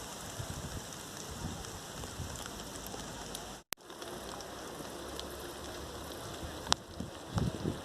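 Steady rain with scattered ticks of drops. The sound cuts out completely for a moment about halfway through, and a sharp tick stands out near the end.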